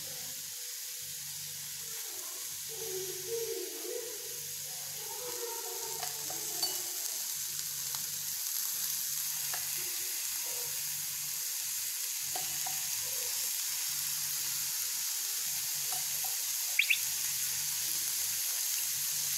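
Chicken tikka skewers with onion and capsicum sizzling in oil on a hot dosa tawa, freshly oiled from a ladle: a steady frying hiss that grows slightly louder. Two sharp clicks sound near the end.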